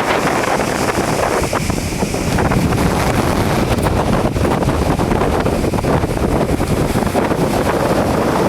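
Strong bora wind buffeting the microphone in a loud, continuous rough rush with scattered short ticks.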